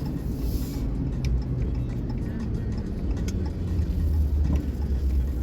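Inside a moving car: steady low engine and road rumble, with a few faint clicks and ticks.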